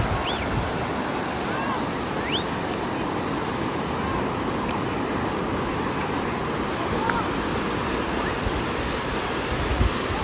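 Steady rush of water, like surf or a torrent, with a few brief high rising chirps over it. A couple of low wind buffets hit the microphone near the end.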